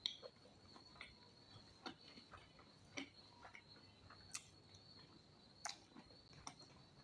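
Faint, irregular mouth clicks and soft smacks of someone chewing a mouthful of pork ribs curry, about a dozen scattered through the stretch.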